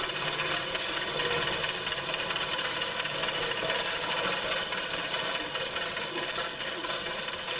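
Farm machinery running steadily: a continuous engine and machine drone that holds an even level throughout.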